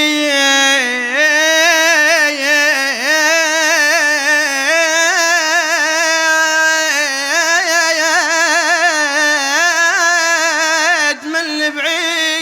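A male radood (Shia religious chanter) singing one long, drawn-out melismatic phrase on the word 'ba'eed', the voice wavering through ornaments, with a short catch of breath about eleven seconds in.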